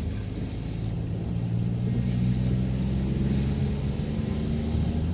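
Car engine running steadily while driving, a low even hum with tyre and road noise.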